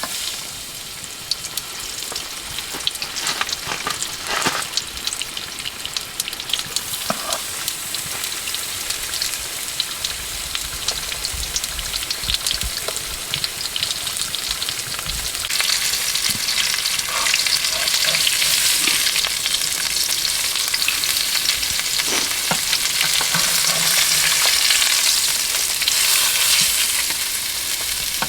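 Food sizzling and crackling as it fries in a pan, with spitting crackles throughout; the sizzle grows louder about halfway through.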